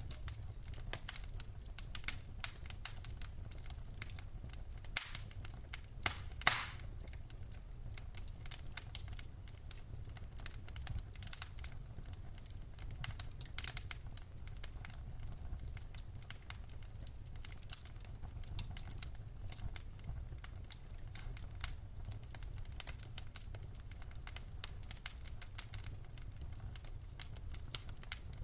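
Wood fire crackling in a fireplace: a dense, irregular patter of small crackles with a few louder pops from the burning logs, over a steady low rumble.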